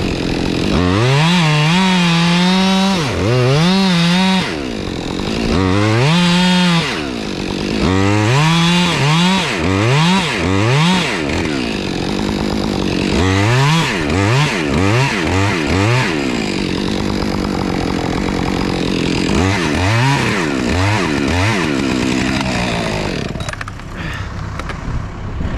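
Chainsaw revved over and over, its pitch climbing to full speed, holding briefly and dropping back, in a run of short throttle bursts while cutting into the oak.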